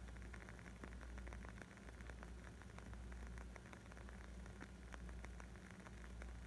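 Wood fire crackling faintly: many small, sharp pops at an uneven pace over a steady low rumble.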